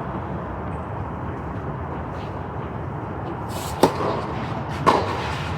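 Tennis ball struck by rackets twice, about a second apart, in the second half, over a steady outdoor noise.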